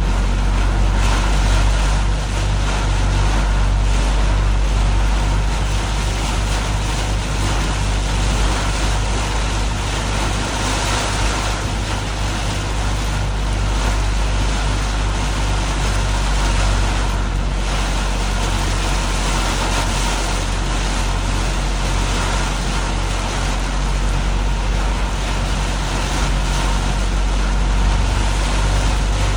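Steady road-vehicle noise in heavy rain: a constant low engine and tyre rumble under an even hiss of rain and water spray.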